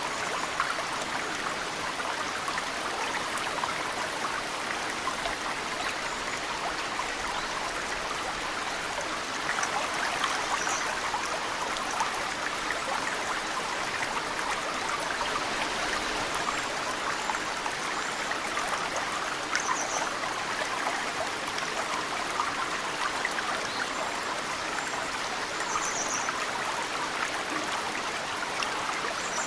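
Mountain stream flowing steadily, with snowmelt water dripping and trickling into it in many small splashes. A few brief high bird chirps come through now and then.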